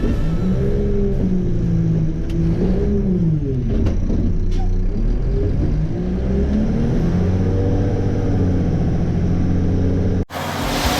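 2010 Mack LEU garbage truck's diesel engine heard from inside the cab, its pitch rising and falling twice as the driver works the throttle. The sound cuts off abruptly near the end.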